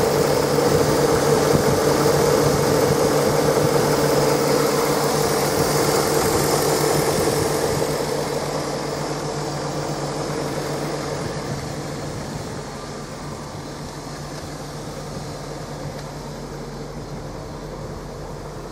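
Jaguar XK8's 4.0-litre V8 idling steadily, growing quieter about halfway through.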